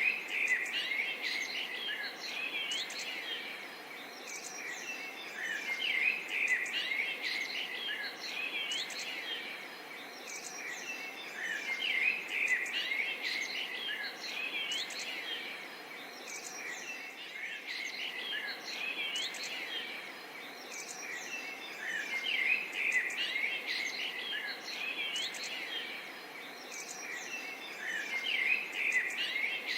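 Forest bird chorus: many birds chirping and calling in quick overlapping notes that swell every five or six seconds, over a faint steady hiss.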